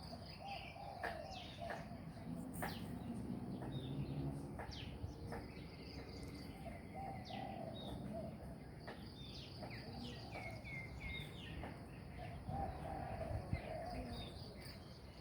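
Birds chirping outdoors: many short, high chirps and calls scattered throughout, over a low steady background noise.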